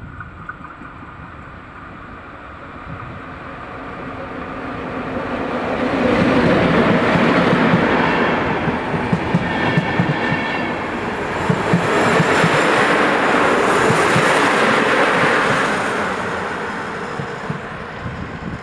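An InterCity passenger train hauled by an EP07 electric locomotive pulling into the station and passing close by. The rumble and clickety-clack of the wheels swell over the first several seconds, stay loud as the coaches run past, then fade near the end.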